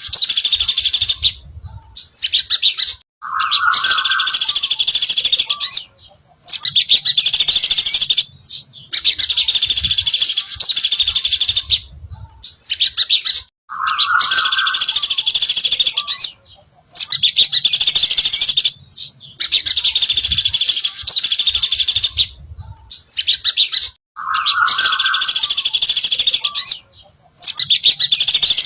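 Sogon dasi trotol songbird singing: loud, rapid high-pitched trills in phrases of one to three seconds with short pauses, a short lower note slipped in about every ten seconds.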